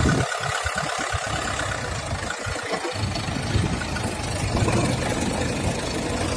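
A diesel engine running steadily at low revs, near idle.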